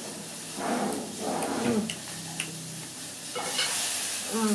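A person chewing a mouthful of rare steak close to the microphone, wet soft mouth noises in short spells, with a brief hummed "mm" about two seconds in.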